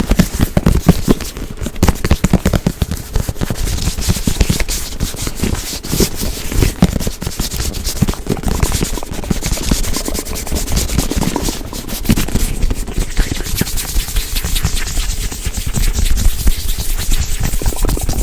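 Hands scratching and rubbing fast and hard close to the microphone: a dense run of rapid scratchy strokes.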